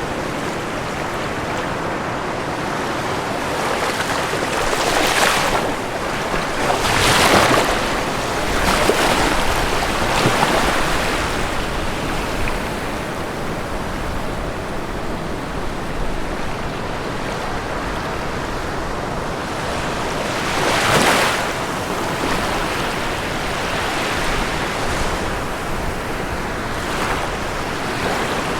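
Ocean surf: a steady wash of waves with several waves breaking about a third of the way in and another around three quarters of the way through.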